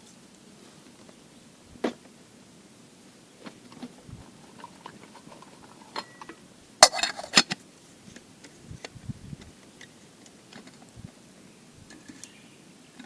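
Camp cookware handled: scattered clicks and knocks, with a brief burst of metal clattering about seven seconds in.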